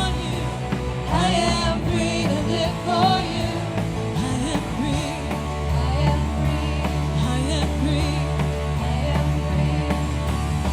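Church praise band playing a worship song with voices singing over guitar and bass. The bass grows fuller about halfway through.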